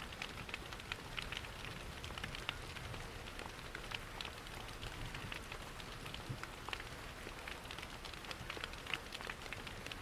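Steady rain mixed with a crackling log fire: many small, sharp crackles and drip-like ticks over an even hiss and a low rumble.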